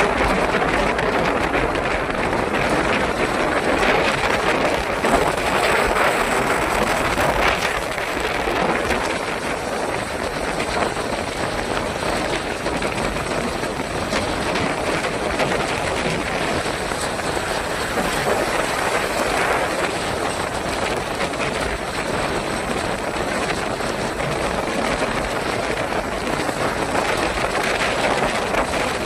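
Steady rain falling: an even, continuous hiss of many small drop impacts.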